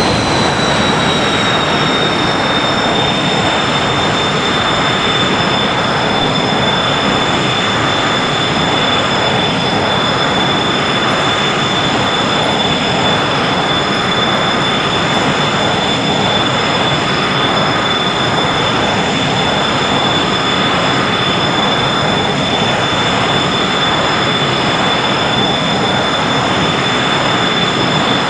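Rafale M's twin Snecma M88 jet engines running steadily, a loud rushing roar with a high turbine whine that eases slightly lower in pitch in the first couple of seconds and then holds.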